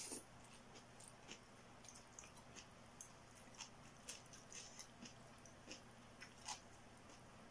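Faint wet chewing and lip-smacking of a mouthful of noodles: a scatter of short clicks, one a little louder about six and a half seconds in.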